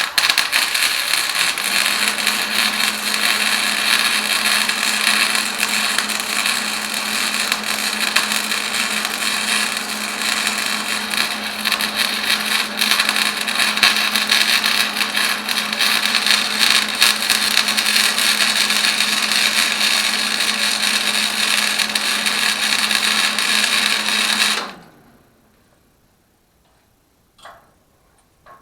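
Electric arc welder laying a continuous bead on steel, a steady crackling hiss with a low hum that runs for about 25 seconds and cuts off abruptly when the arc is broken. A faint click follows near the end.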